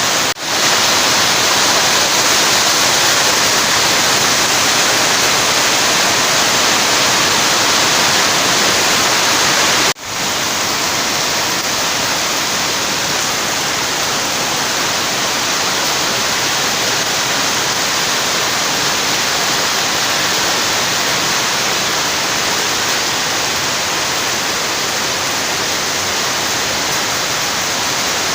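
Rain falling steadily, a dense even hiss that cuts out for a moment twice, just after the start and about ten seconds in.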